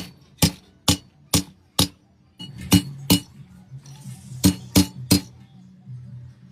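Hammer tapping on metal in ten sharp clinks: a run of five evenly spaced strikes, then two, then three, consistent with work on a tractor alternator.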